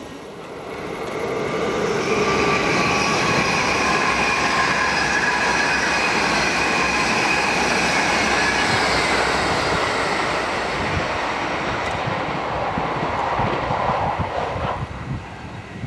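Electric train passing at speed on the Amsterdam–Utrecht line, building up over the first two seconds. A steady whine at several pitches sounds over the rail noise and drifts slightly lower, and the sound drops away near the end.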